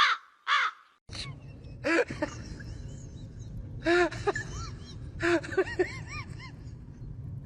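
A crow caws once. Then, over a steady low rumble, come a series of short, rising-and-falling animal calls, some high and thin, that repeat irregularly.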